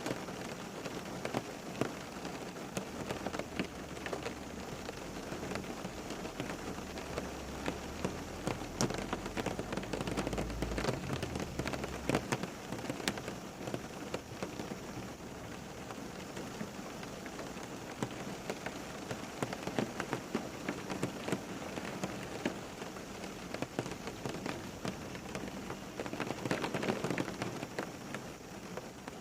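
Steady rain falling on a surface, with many distinct drop hits. A low rumble sits under the rain from a few seconds in until about halfway.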